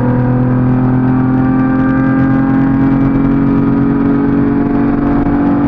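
Car engine pulling hard under acceleration in one gear, its pitch rising slowly and steadily, heard from inside the car.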